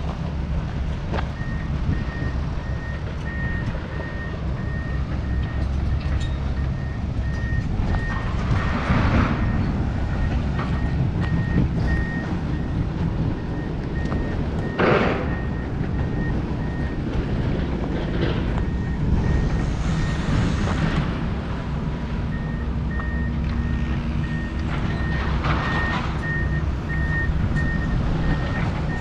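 Backup alarm of a heavy vehicle beeping at one high pitch in a steady string, over the low rumble of its engine. The beeping stops for a few seconds past the middle and then starts again, and there are a few louder surges of noise along the way.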